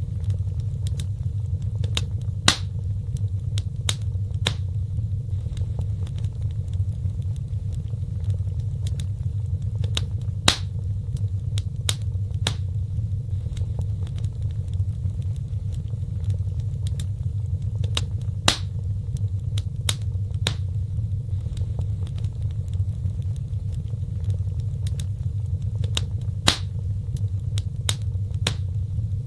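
Wood fire burning: a steady low rumble of flames with sharp crackles and pops scattered through it, a few of them noticeably louder.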